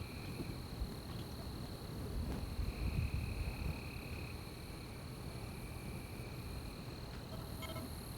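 Night insects calling: one steady high trill, with a lower buzzing call that starts and stops in stretches of a second or two, over a low rumble that swells briefly about three seconds in.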